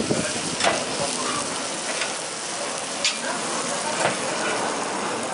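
Food sizzling as it fries at a street food stall, a steady hiss broken by about five sharp clicks at uneven intervals.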